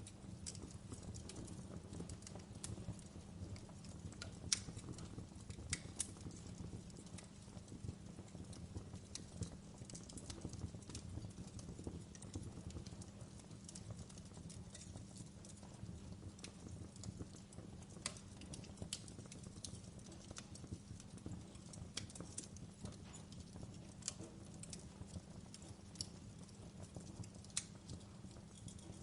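Wood fire burning in a fireplace: a soft steady rumble of flames with irregular crackles and pops from the burning logs, a few of them sharper and louder.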